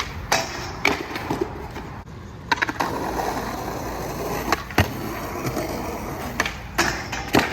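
Skateboard wheels rolling over rough pavement with a steady gritty rumble, broken by several sharp clacks and knocks of the board, the heaviest about five seconds in.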